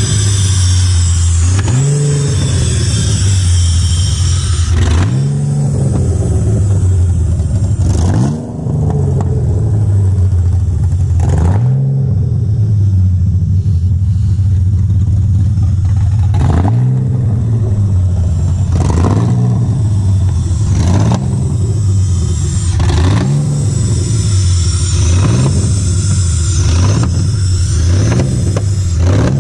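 Freshly rebuilt L67 supercharged 3.8-litre V6 in a Holden VY Commodore, running and revved again and again in short throttle blips, roughly every two seconds, each rising and falling in pitch, with a steady fast idle between them. A high whine rises and falls with each blip.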